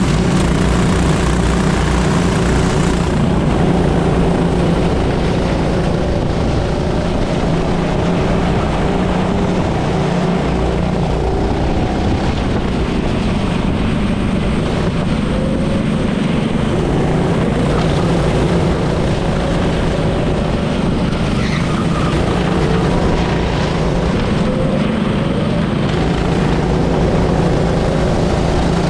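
Race car engine running continuously under load, its pitch rising and falling gently as the revs change.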